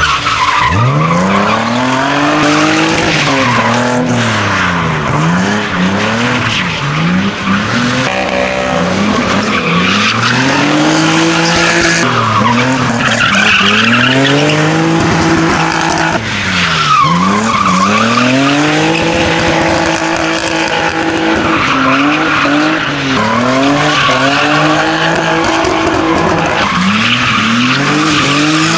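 Toyota Supra Mk3 drifting: the engine revs rise and fall over and over under throttle, with tyre squeal from the sliding rear tyres.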